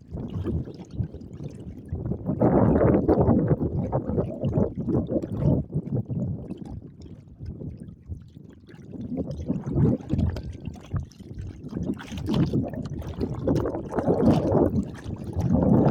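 Lake water sloshing and slapping against a kayak hull in wind-driven waves, with wind buffeting the microphone. The noise rises and falls in surges a few seconds apart.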